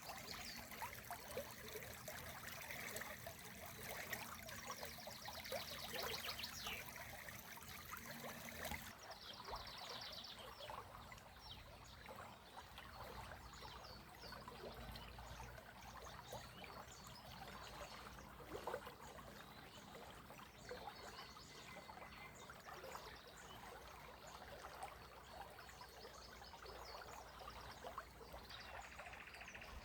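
Faint, steady trickle of a small spring, with birds singing over it: a fast high trill a few seconds in and again around nine seconds, then scattered shorter chirps. The high hiss drops away abruptly about nine seconds in.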